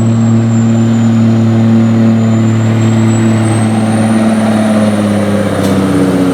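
Kenworth semi truck's diesel engine pulling the sled under full load. A steady, loud drone has a thin high whistle over it, and its pitch sags a little past the middle as the engine lugs down.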